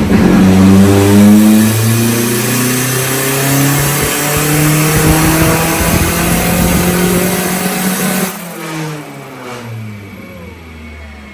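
Turbocharged Nissan Hardbody pickup engine making a wide-open-throttle pull on a chassis dynamometer under boost, its pitch climbing steadily for about eight seconds. Then the throttle closes abruptly and the revs fall away.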